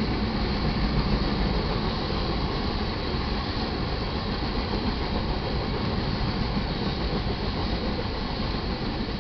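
Iron ore train's freight cars rolling past: steady noise of steel wheels running on the rails.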